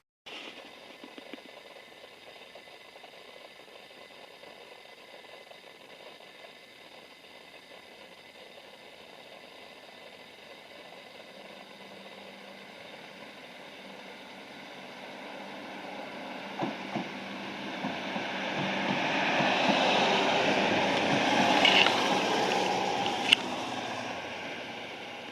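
A rail vehicle being shunted passes by: its running noise swells over several seconds to a peak and then fades, with a few sharp clicks near the loudest part.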